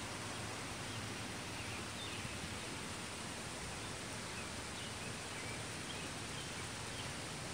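Steady outdoor background noise, an even rushing haze, with a few faint, short, high chirps scattered through it.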